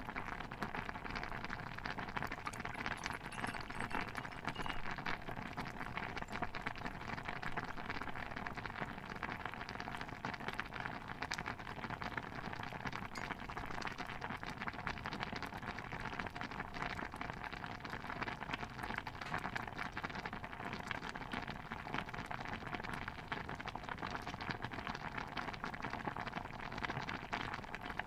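A pot of stew bubbling at a steady simmer: a dense, even run of small pops and crackles.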